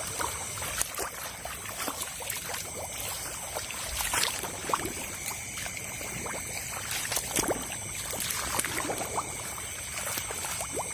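Shallow water in a flooded rice paddy splashing and trickling in scattered small splashes, over a steady high insect chorus.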